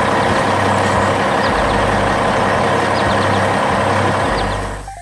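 A heavy truck engine runs steadily with a low rumble, then fades out near the end.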